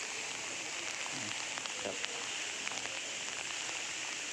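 Steady rushing hiss of water pouring through the reservoir's opened flood gates, with faint voices about a second in.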